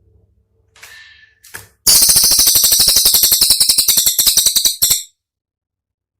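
Cililin song: a few short high call notes, then a loud, very fast rattling trill of sharp clicks, about fifteen a second, for some three seconds, cutting off abruptly. This is the rapid "tembakan" burst that keepers use to train songbirds.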